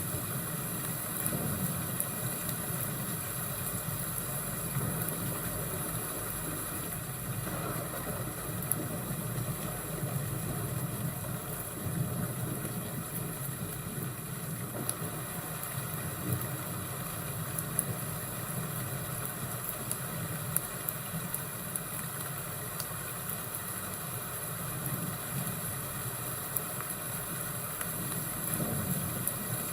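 Fireplace and thunderstorm ambience: a steady low rumble and hiss with scattered sharp crackles.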